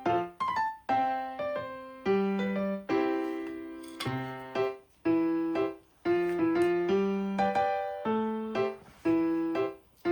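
Background piano music: slow chords and melody notes struck and left to die away, with short pauses between phrases.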